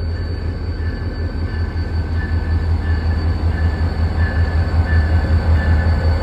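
A very long train rolling past: a steady low rumble with a thin high squeal from the wheels that comes and goes.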